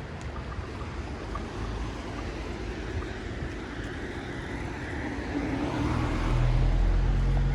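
City street traffic on wet asphalt: a steady hiss of tyres on the wet road, with a motor vehicle's engine hum growing louder from about five and a half seconds in as it draws near.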